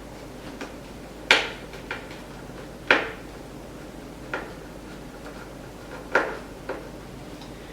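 Scattered sharp clicks and light knocks of a Phillips screwdriver and screws worked against an electric unicycle's plastic side panel, the loudest about a second and a half in, at three seconds, and just past six seconds.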